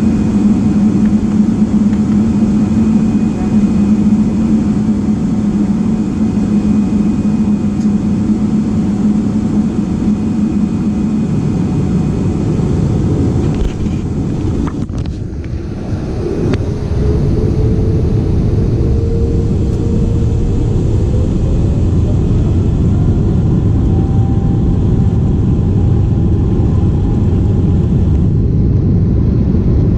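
Steady roar of jet engines and rushing air inside an airliner cabin. A low hum fades about eleven seconds in, there is a short break about halfway, and a tone then slides up in pitch.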